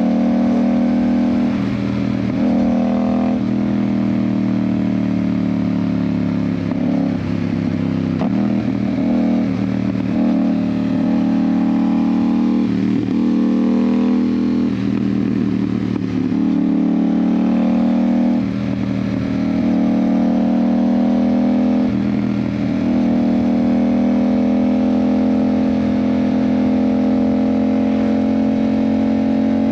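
Yamaha MT-07's 689 cc parallel-twin engine running through an Ixil aftermarket exhaust while riding. The engine note rises and dips repeatedly, then holds steady for the last several seconds.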